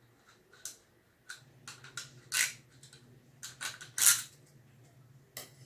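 Scissors snipping through the thin, flimsy plastic of a 2-litre soda bottle while trimming an uneven cut edge: a run of sharp, irregular snips and clicks, the loudest about two and a half and four seconds in.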